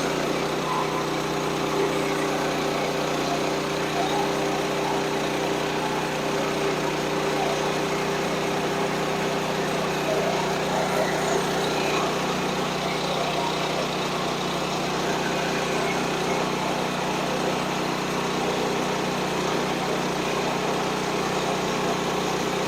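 Small gasoline engine of a portable band sawmill running steadily at an even speed.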